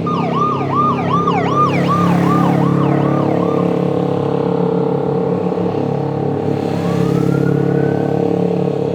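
Emergency-vehicle siren in a fast yelp, rising and falling about two to three times a second for the first three or four seconds, then one slower rising wail later on. A steady motor hum runs underneath.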